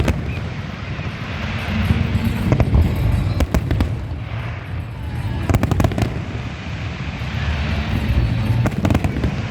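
Fireworks bursting: bangs and crackles that come in clusters, several volleys over a steady background rumble.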